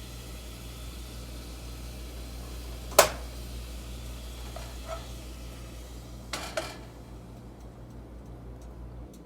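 Crockery clinks: one sharp clink about three seconds in, a lighter one near five seconds, then two quick clinks, over a steady low hum.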